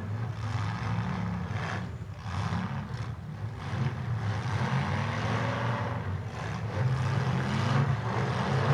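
Demolition derby cars' engines running and revving unevenly as the cars push against each other, with a low, steady engine hum throughout.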